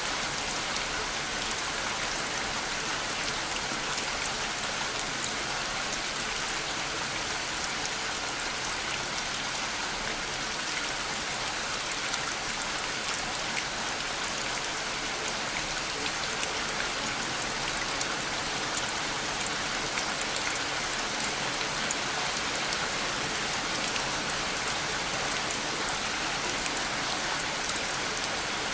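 Steady rain falling, with a constant hiss and many small drop patters, evenly loud throughout.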